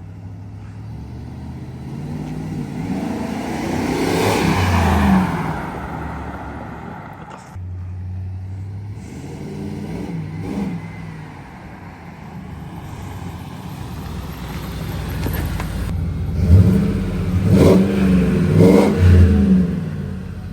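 A 2001 Ford F-150's 5.4-litre V8 running through a full Flowmaster dual exhaust, accelerating while driving. The engine note swells and drops off several times, loudest near the end with a few quick surges.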